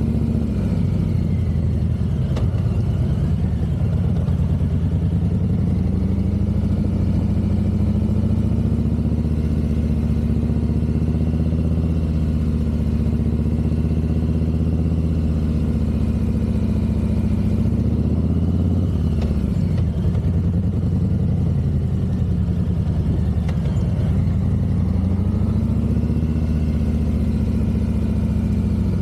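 Harley-Davidson Fat Boy 114 motorcycle's Milwaukee-Eight 114 V-twin engine running steadily, its pitch falling and climbing again a few times.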